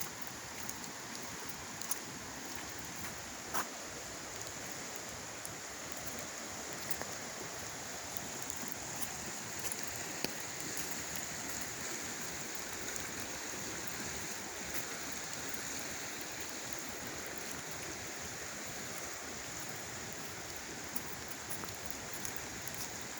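Creek water flowing in a steady rush, with a few faint clicks here and there.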